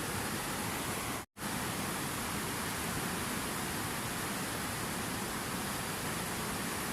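Steady rushing water, an even hiss with no change in pitch or rhythm. It cuts out to silence for a split second about a second in, then resumes at the same level.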